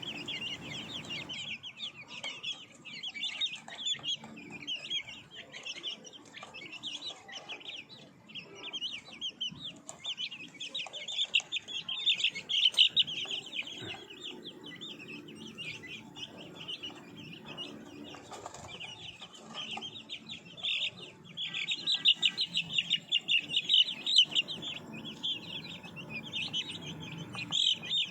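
A brood of Ayam Cemani chicks peeping continuously in many overlapping high-pitched cheeps. They get louder about halfway through and again near the end, over a low rustle.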